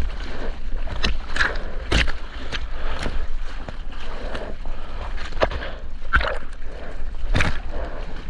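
Seawater sloshing and splashing right at a surfer's GoPro, over a deep rumble, with a run of sharp splashes every half second to a second.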